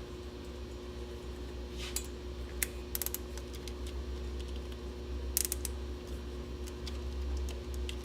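A few scattered sharp clicks and clinks of hand tools and metal fittings being worked, over a steady low hum with a faint steady tone.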